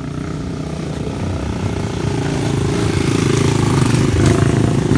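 Motorcycle engines running and approaching, growing steadily louder.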